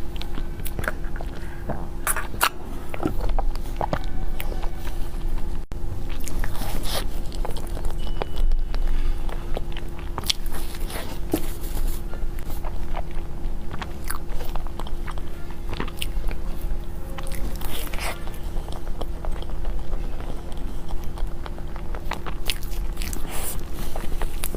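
Close-miked eating of desserts: repeated biting and chewing, with many short, irregular clicks.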